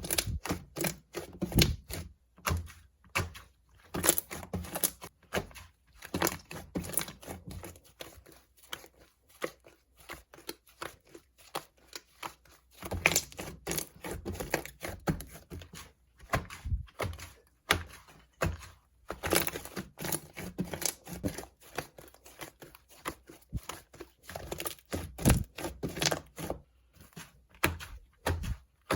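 Slime mixed with corn clay being squeezed, stretched and pressed by hand, giving irregular runs of sticky crackling and soft pops with short pauses between.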